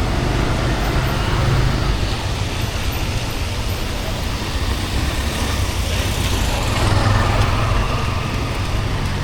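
Steady road traffic: vehicle engines running and passing on a city street, with a continuous low rumble.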